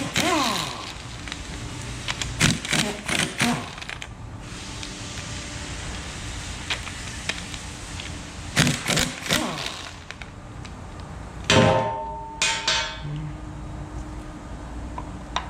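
Hand tools and loose metal engine parts clinking and knocking in several short bursts, as parts come off the front of a GM LS1 V8 around its oil pump and timing set. Near twelve seconds a metal part rings briefly as it is knocked or set down.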